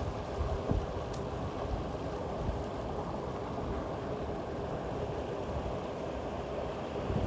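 Steady rush of wind and water, with uneven low gusts buffeting the microphone.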